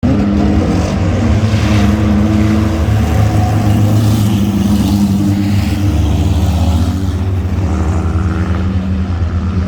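Mini truck engines running in a race, a loud steady engine sound that eases slightly near the end.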